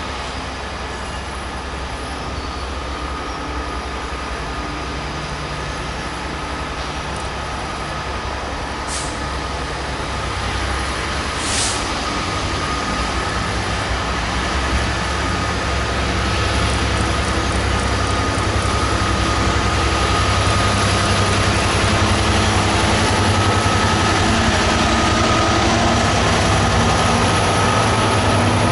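Diesel locomotive engine running and growing steadily louder as it approaches, with a steady high whine over the low engine note. Two short hisses of air come about nine and twelve seconds in.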